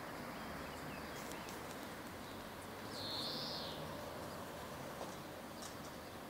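A single short, high bird call about three seconds in that rises and then falls, over steady outdoor background noise.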